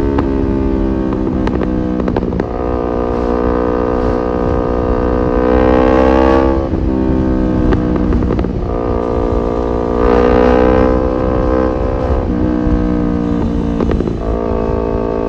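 Kawasaki Ninja 250 FI parallel-twin engine running through an R9 H2 SS aftermarket exhaust, pulling up through the revs and dropping in pitch at gear shifts about 2.5, 7 and 12 seconds in. A low rumble of wind sits under it.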